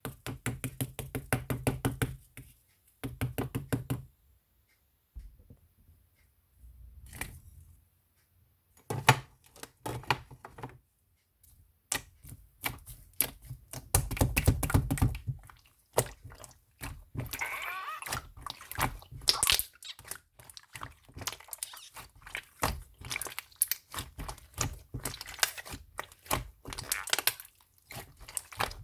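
Slime with Lego-brick pieces mixed in, being squeezed and pressed by hand. It gives fast runs of sharp clicks and crackles with soft thuds, quieter for a few seconds near the start, then busy and nearly continuous.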